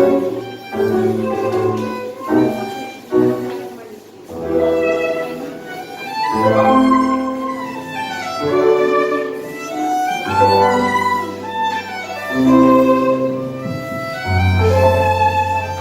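Live tango music from a small ensemble: a violin carries the melody in long bowed notes over sustained low bass notes.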